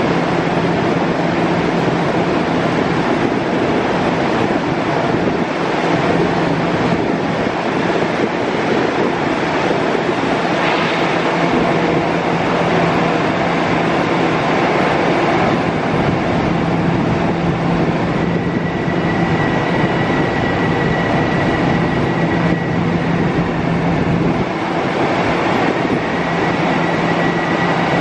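Bombardier M7 electric train standing at the platform with its doors open, its onboard equipment running with a steady, loud hum and low drone. A faint high steady tone joins about two-thirds of the way in.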